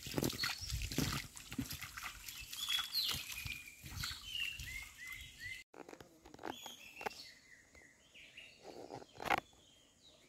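Small birds chirping in short rising and falling calls, with scattered short knocks and rustles mixed in. It goes quieter about halfway through, leaving a few more chirps and a knock near the end.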